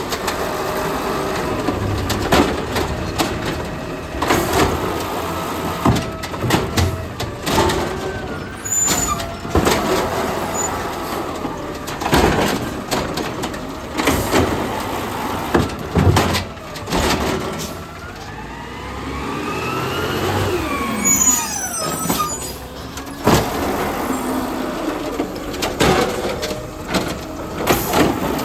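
Garbage truck engine running, with many sharp clanks and bangs throughout. About twenty seconds in, a whine rises and then falls.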